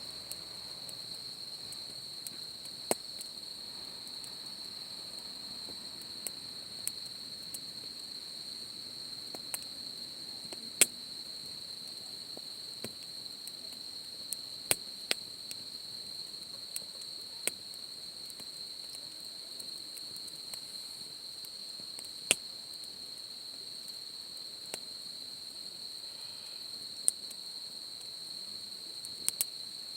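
Crickets trilling in one steady high tone throughout, with sharp irregular pops and crackles from a wood campfire every second or so.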